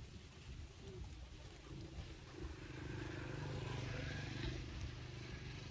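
A motor vehicle's engine hum, steady in pitch, growing louder about halfway through and easing off near the end.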